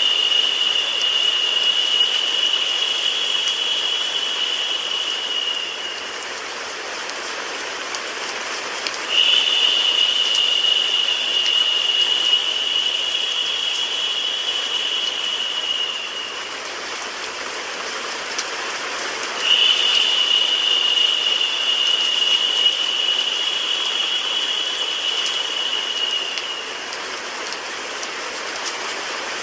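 Steady rain-and-white-noise hiss. A high, steady tone rises above it three times, each lasting about seven seconds and returning about every ten seconds, and each dips slightly in pitch as it fades out.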